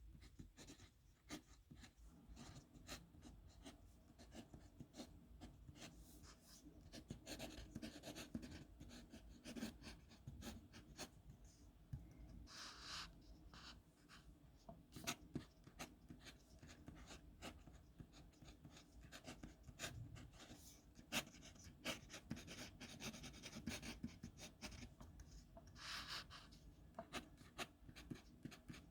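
Pen writing signatures on paper: a run of quick, faint scratches and taps of the tip, with a couple of longer drawn strokes about halfway through and near the end.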